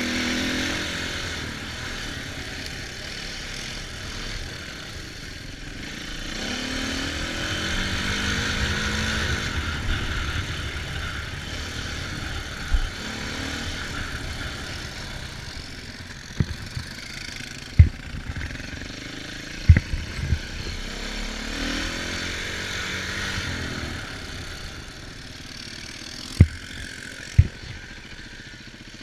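Dirt bike engine running while riding, its pitch rising and falling as the throttle opens and closes, with wind rushing over the microphone. Several sharp knocks come through in the second half.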